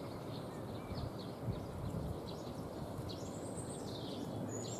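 Small songbirds calling at a feeding station: scattered short, high chirps, with one longer arching call a little past halfway. Under them runs a steady low background noise.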